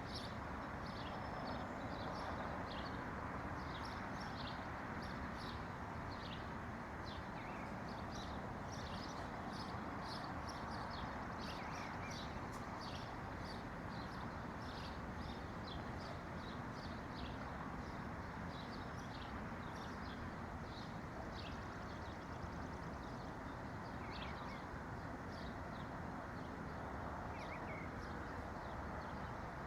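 Many small birds chirping in short, high, quick notes, scattered through the whole stretch, over a steady rushing background noise.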